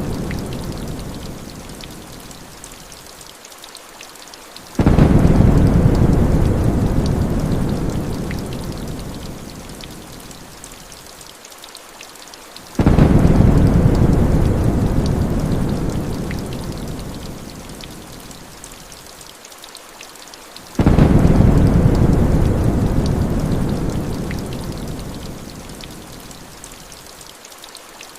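Thunderstorm: steady rain hiss under a deep thunder rumble that breaks in suddenly three times, about eight seconds apart, each rumble fading slowly before the next.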